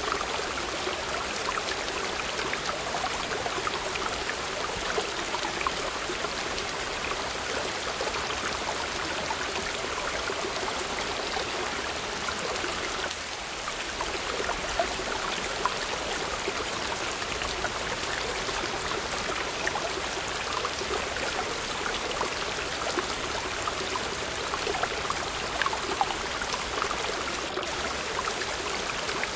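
Waterfall water running and splashing steadily, an even rushing hiss with little deep rumble.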